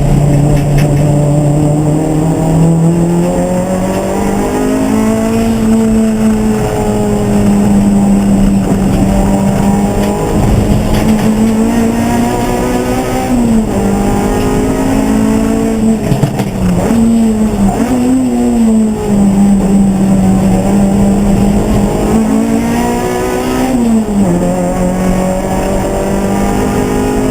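Racing car engine running continuously, its note rising and falling with the throttle. There are quick drops and rises in pitch a little past halfway and again about three quarters through.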